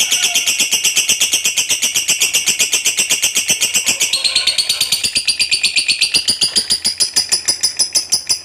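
Lovebird in a long, unbroken ngekek: a rapid run of sharp, high chattering chirps, about a dozen a second.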